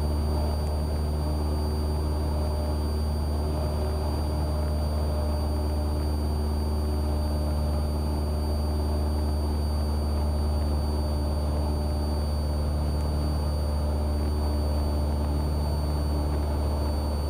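Cessna 172R's four-cylinder Lycoming IO-360 engine and propeller droning steadily in flight, heard from inside the cabin. There is a thin, steady high-pitched whine over it.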